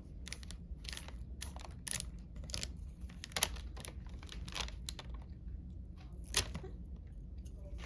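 Typing on a computer keyboard: irregular key clicks, a few a second.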